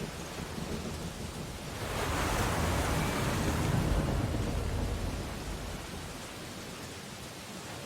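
Ocean waves on a beach: a steady surf hiss, with one wave breaking about two seconds in, its rumbling rush swelling and then fading away a few seconds later.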